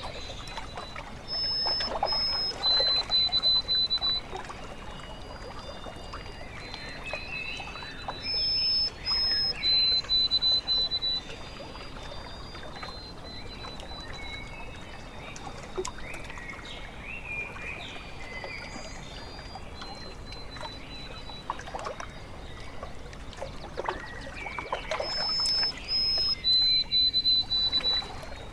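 Water lapping and trickling at a lake shore, with a songbird whistling the same clear phrase three times: two short high notes, then a longer held lower note. Fainter bird chirps sound in between.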